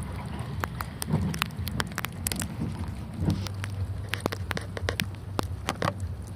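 Small ice pellets (sleet) falling and ticking on hard surfaces, many sharp irregular clicks over a low steady hum.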